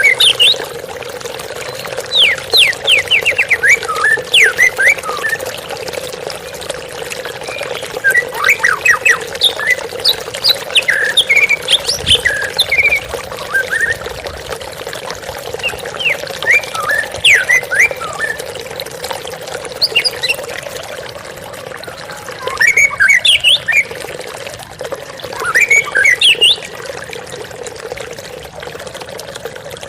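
White-rumped shama (murai batu) singing bursts of quick, sweeping whistled phrases every few seconds, over the steady splashing of a waterfall.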